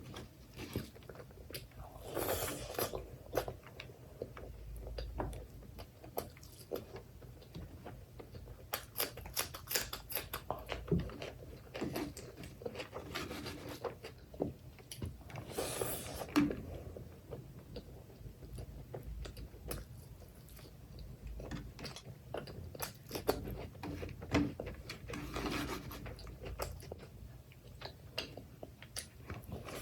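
Close-up eating sounds of mutton curry with rice: wet chewing and lip smacking with short crunchy bites, coming in bouts with brief pauses between mouthfuls.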